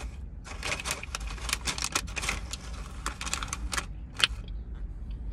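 Close-miked chewing of a crispy-shelled burrito: a quick run of crunching clicks for about four seconds, with one sharper crunch near the end.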